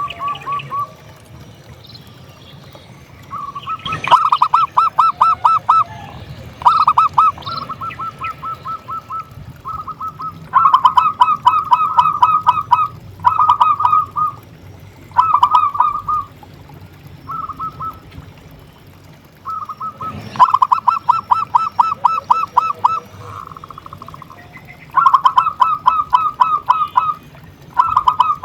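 Zebra dove (perkutut) singing: bursts of rapid staccato cooing notes, each burst one to two seconds long, repeated again and again with short pauses. A low steady hum runs underneath.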